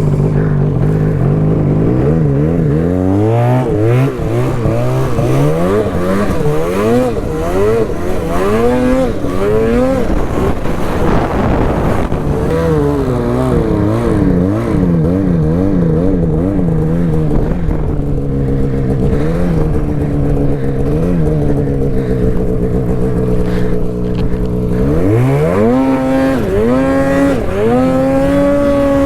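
Arctic Cat mountain snowmobile's two-stroke engine being ridden through deep powder. The revs rise and fall over and over, about once a second, as the throttle is worked, steady for a few seconds, then climbing sharply near the end and staying high.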